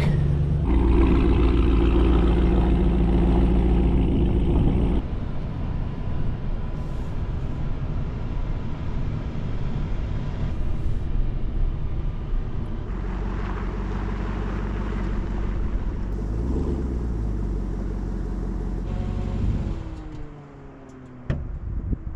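Vehicle engine running while driving, heard in several cut-together stretches, with a brief rise and fall in pitch a few seconds before the end. Near the end the engine note glides down and drops away, leaving a few clicks.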